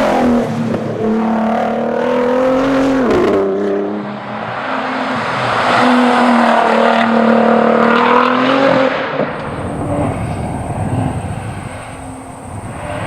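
Nissan R35 GT-R's twin-turbo V6 running hard at racing speed, its pitch holding steady then dropping sharply about three seconds in. It is loud and steady again for several seconds before fading away near the end.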